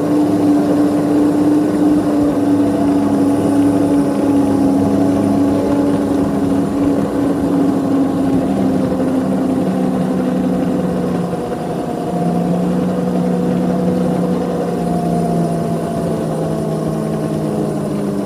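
Locomotive engine running steadily as the train travels, its pitch slowly falling.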